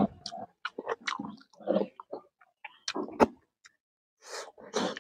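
Close-miked chewing and lip smacks of a man eating rice and curry by hand, in short irregular bursts and clicks, with a brief pause about four seconds in.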